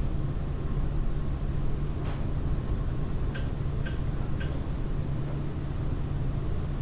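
Electric commuter train running slowly and decelerating, heard from inside the car: a steady low rumble with a few short high squeaks and one sharp clack about two seconds in.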